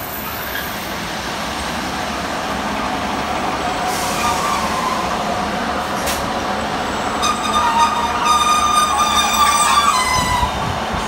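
A British Rail Class 153 diesel railcar pair, two single-car units coupled, running slowly past along the platform, its underfloor diesel engines and wheels on the rails growing louder as the cars come close. From about seven seconds in a high metallic squeal of several steady tones rises over it.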